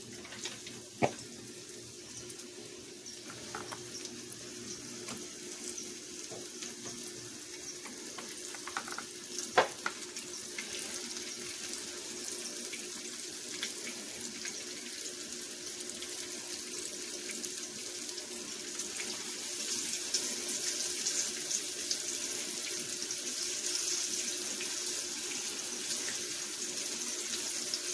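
Flour-coated chicken liver frying in hot olive oil: a steady sizzle that grows gradually louder, with two sharp clicks, about a second in and near ten seconds in.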